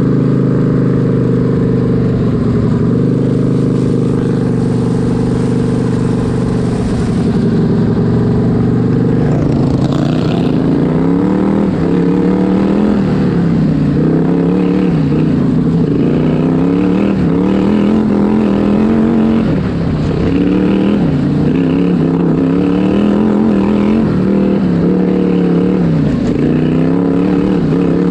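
V-twin engine of a racing lawn tractor running hard. It holds a steady high pitch for about the first nine seconds, then rises and falls every couple of seconds as the throttle is backed off and opened again.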